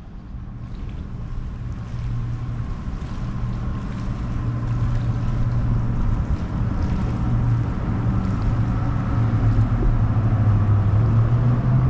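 A motorboat engine's steady drone, growing steadily louder as the boat approaches, its pitch rising slightly near the end.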